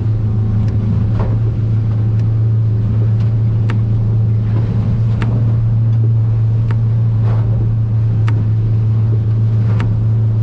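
Aluminium fishing boat running at cruising speed: the outboard engine gives a steady low drone, with a sharp knock every second or so as the boat moves through the chop.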